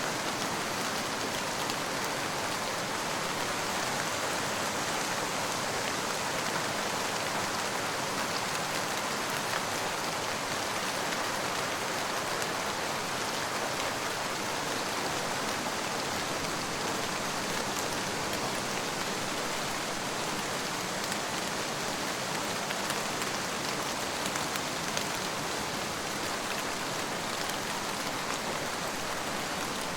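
Steady rain falling on a surface, an even hiss with the patter of many fine drops.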